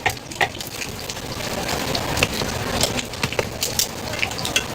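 Food crackling as it fries, with many scattered sharp clicks and pops over a steady sizzle.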